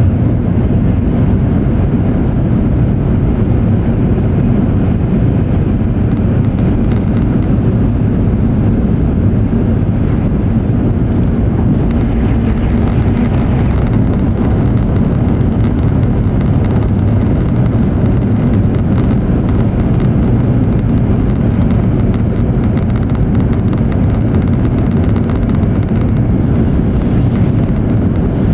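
E7 series Shinkansen running at speed, heard from inside the car as a steady, loud low rumble and roar. From about twelve seconds in until near the end, a scatter of fine, sharp ticks rides on top of it.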